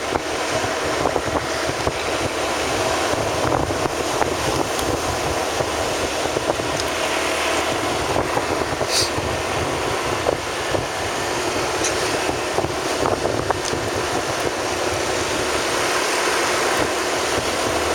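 Steady road noise of a vehicle on the move, with wind rushing over the microphone and a brief high squeak about nine seconds in.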